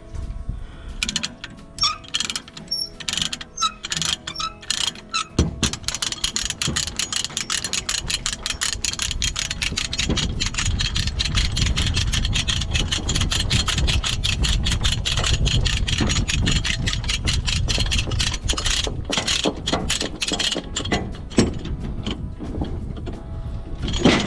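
Ratchet tie-down strap being cranked tight, a long run of fast, sharp clicks.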